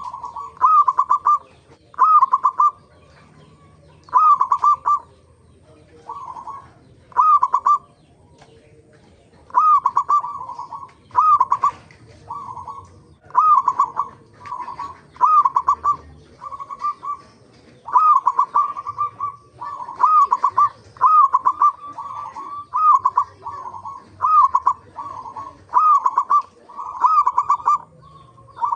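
Zebra doves (perkutut) cooing: short bursts of quick, clipped coo notes repeated about once a second, with a couple of brief pauses.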